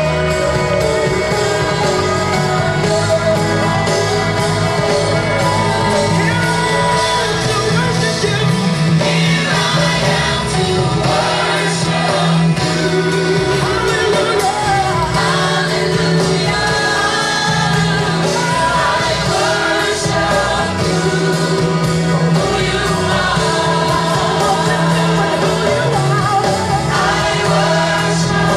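Live gospel worship music: singers with a full band, loud and continuous.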